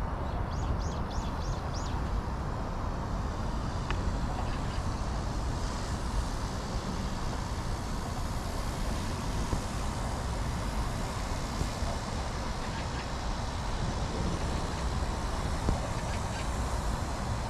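Steady outdoor background rumble of the kind distant traffic makes. Within the first two seconds comes a quick run of about five short, high bird chirps.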